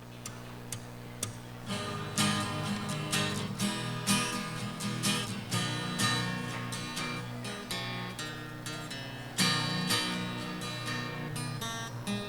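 Acoustic guitar strumming a song intro, a few light strokes at first, then full steady chord strumming from about two seconds in.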